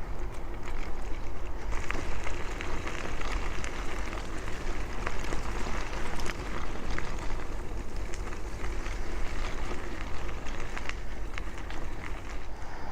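Bicycle riding noise: wind buffeting the microphone over a steady low rumble of tyres on the road, with occasional light clicks and rattles.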